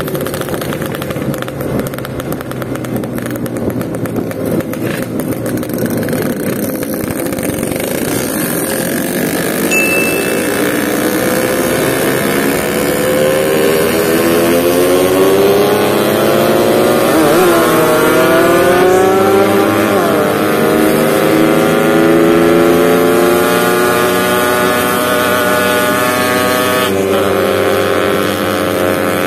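Yamaha RX-King's two-stroke single-cylinder engine pulling hard on the road. Its pitch climbs from about ten seconds in, dips briefly twice, holds high, and falls back near the end.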